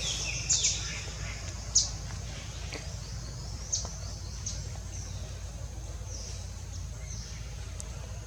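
Bird chirping: short, high, downward-sweeping chirps, quick at first and then scattered, with a few sharper louder ones near the start. A steady low rumble underneath.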